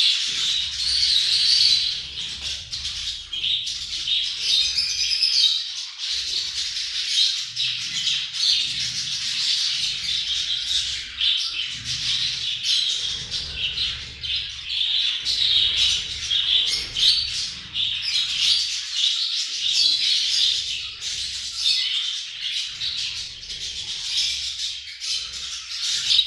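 A group of budgerigars chattering and warbling continuously, a dense stream of fast, high twittering calls.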